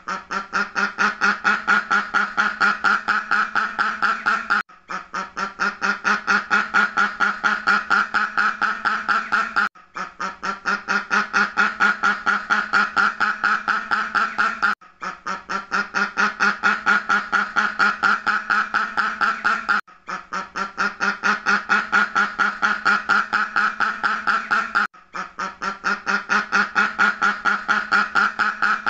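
Duck quacking in rapid, even series of about five quacks a second, in stretches of about five seconds with a brief gap between each, repeating as a loop.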